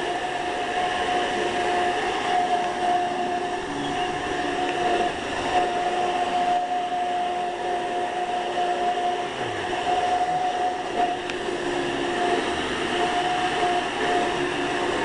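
Hoover commercial direct-air upright vacuum cleaner running steadily, its motor and fan giving a constant whine over the rush of air.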